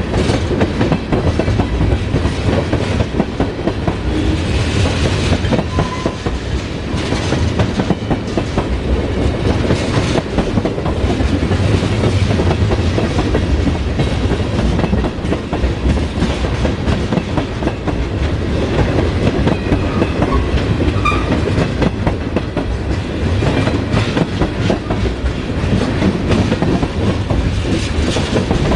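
Freight train of oil tank cars rolling steadily past, steel wheels clattering over the rail joints with a continuous rumble.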